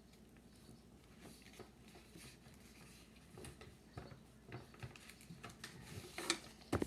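Sheets of paper being handled and folded: soft rustles and small crinkles, growing busier, with a few louder crinkles and taps near the end.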